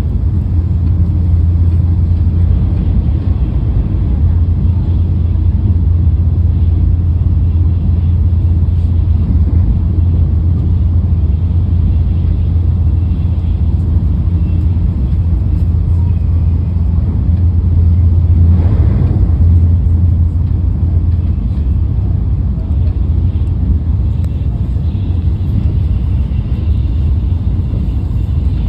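Shinkansen running at speed, heard inside the passenger cabin as a steady low rumble. A brief louder rush comes about two-thirds of the way through.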